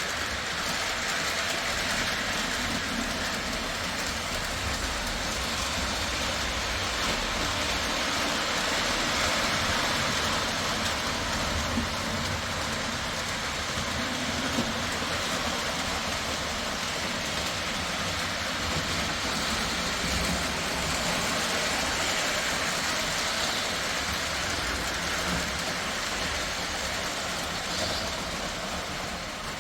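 O gauge electric model trains running on three-rail track: a steady whir of motors and the rolling of metal wheels on rail, swelling slightly now and then.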